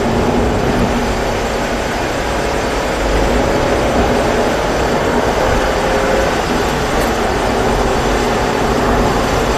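Mazda 3 1.6's engine heard from inside the cabin, pulling under acceleration out of a corner, over steady road and tyre noise on a wet track.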